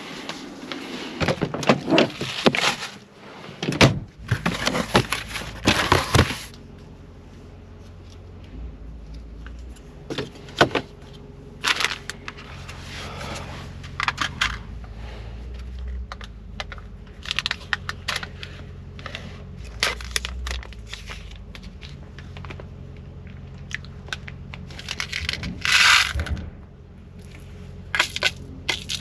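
Irregular crinkling, scraping and clicking, with louder clusters near the start and again near the end, over a steady low hum.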